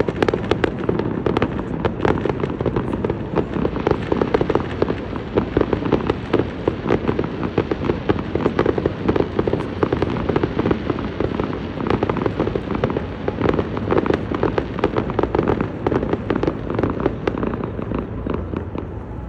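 Aerial fireworks bursting in a dense, continuous barrage: rapid overlapping bangs and crackles with no pause, easing slightly at the very end.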